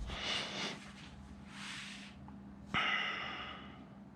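A man's heavy breaths, sighing out through the nose, and one brief sharp knock with a short ringing tone about three seconds in.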